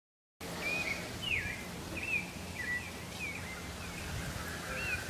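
A bird chirping over a low steady background hum, a short curling call every half second or so. It cuts in suddenly about half a second in.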